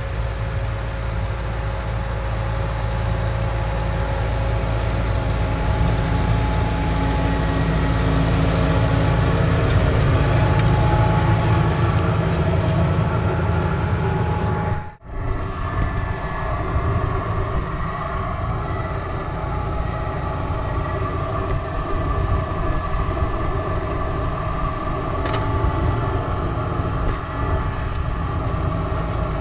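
Massey Ferguson 5455 tractor's diesel engine running steadily under load while pulling a Mascar six-row maize planter. About halfway through the sound cuts out for a moment and returns with less low rumble and more of the higher running noise.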